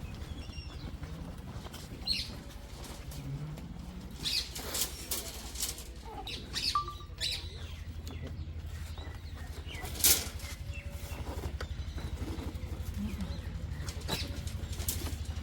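An engine idling steadily with an even low pulse, while birds chirp and a few short clicks and knocks sound over it.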